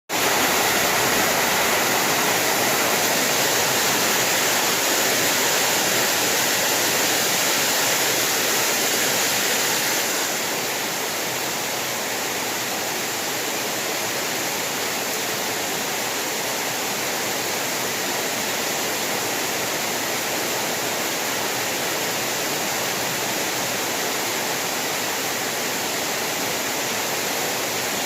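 Heavy rain falling, a steady even hiss with no thunder, dropping slightly in level about ten seconds in.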